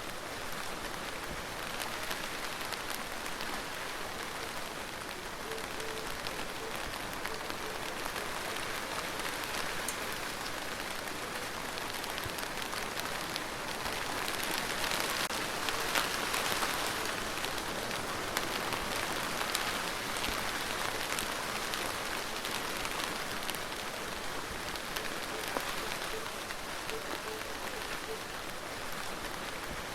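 Steady rain falling, with the fine patter of individual drops, growing heavier for a few seconds about halfway through and then easing back.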